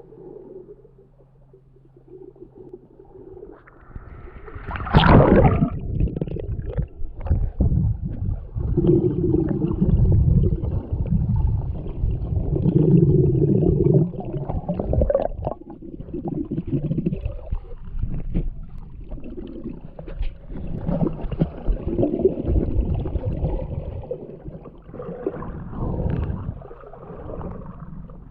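Underwater sound in a swimming pool: water churning and gurgling with bubbly crackles as the swimmer moves. A loud surge comes about five seconds in, after a quieter start.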